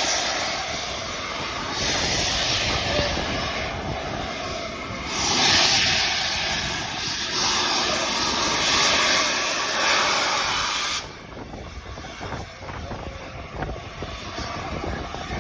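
Steam hissing loudly from the A4 steam locomotive Sir Nigel Gresley in long surges, which cuts off about eleven seconds in, leaving a quieter low rumble.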